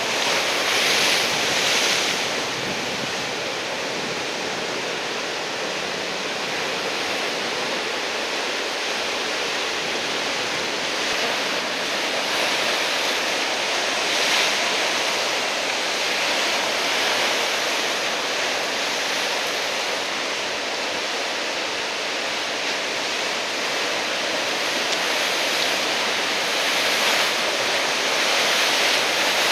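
Heavy surf from a typhoon swell breaking on the shore: a continuous wash of waves, with louder surges about a second in, around fourteen seconds in and near the end.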